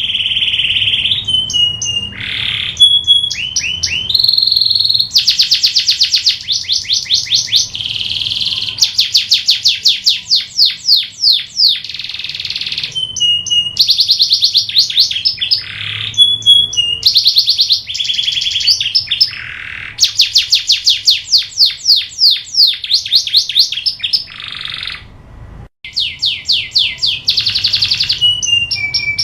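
Canary singing without a break: fast trills of rapidly repeated notes alternate with short, steady, high whistled notes, the phrase changing every second or two.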